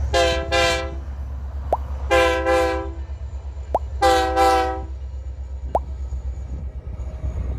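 BNSF freight locomotive's multi-chime air horn sounded in three groups of two blasts, about two seconds apart, over a steady low rumble of the train. A short rising chirp comes about every two seconds between the blasts.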